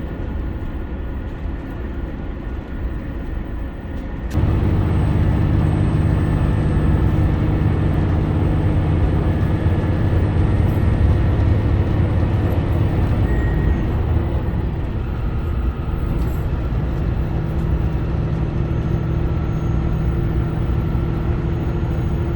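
HOT7000-series diesel express railcar under way: diesel engine and running noise. It gets abruptly louder about four seconds in, with a deep engine drone and a faint high steady whine.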